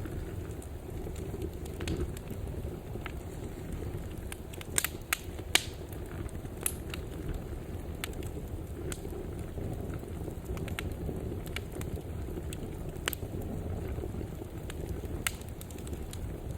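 Wood fire burning in a fireplace: a steady low rumble of the flames with scattered crackles and sharp pops, a few louder pops about five to seven seconds in.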